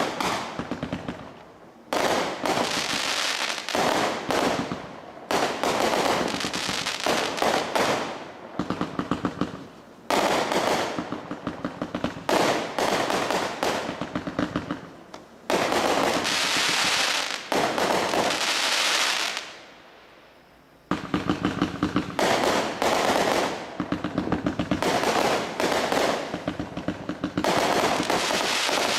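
World Destroyer 192-shot firework cake firing long volleys of rapid shots, broken by a few short pauses, the longest about three-quarters of the way through.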